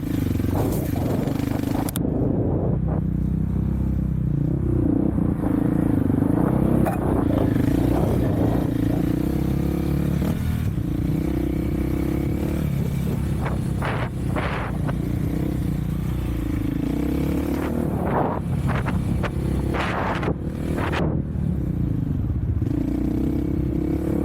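Engine of an off-road vehicle being ridden on a trail, its pitch rising and falling with the throttle. Scattered scrapes and clatter cut in, loudest in the second half.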